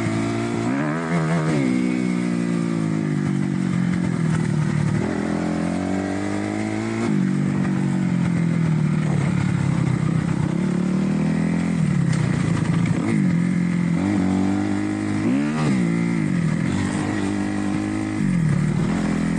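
Kawasaki KX250F single-cylinder four-stroke dirt bike engine under way, its pitch rising and falling several times as the throttle is opened and closed.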